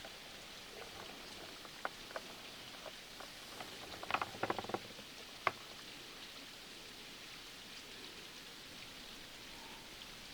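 Steady rain ambience, an even hiss of falling rain, with scattered small sharp clicks and taps and a quick cluster of them about four to five seconds in.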